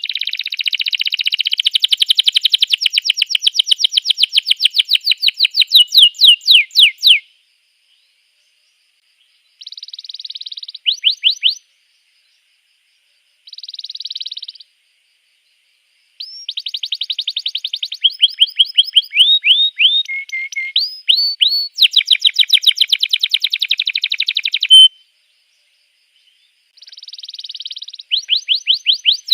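Domestic canary singing: fast rolling trills of rapidly repeated high notes, in phrases of different lengths broken by pauses. A long trill opens, short bursts follow after a silence, and a longer run of varied trills comes in the second half, starting again near the end.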